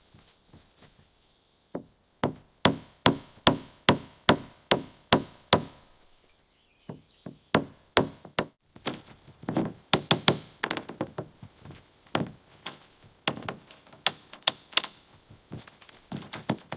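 Repeated sharp knocks on wood, about three a second at first, then after a short pause a longer, less even run of strikes, like hammering or chopping.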